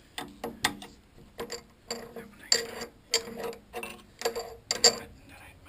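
Irregular metallic clinks and knocks, about ten in five seconds, each with a brief ring, as small metal parts or tools are handled. The loudest come about two and a half seconds in and near the end.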